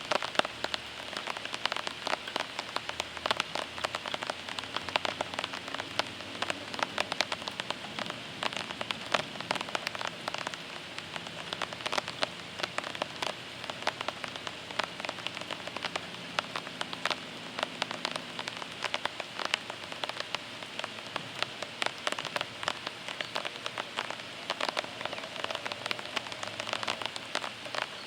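Steady rain falling onto a surface during a thunderstorm, a constant hiss thick with sharp drop hits throughout.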